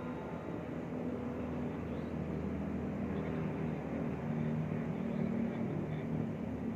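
A steady low mechanical drone made of a few held humming tones that waver slightly in pitch.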